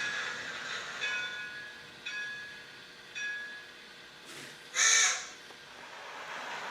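A locomotive bell ringing about once a second, four strokes growing weaker, then a crow cawing once, loudly, about five seconds in.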